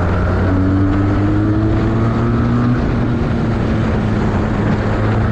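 2019 Benelli 302R's inline two-cylinder engine on its stock exhaust, running steadily. Its pitch climbs slightly over the first few seconds, then drops a little about halfway through.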